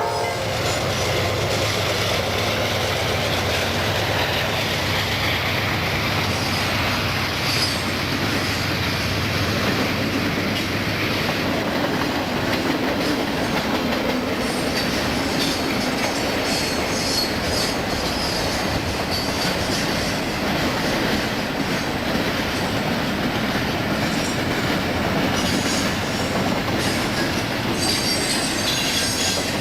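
Freight train rolling past, its steel wheels clattering over the rail joints with intermittent high wheel squeal.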